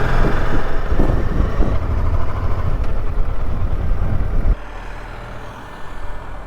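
Honda Deauville motorcycle being ridden: engine and rushing wind noise on the onboard microphone. About four and a half seconds in it drops sharply, leaving a much quieter low hum.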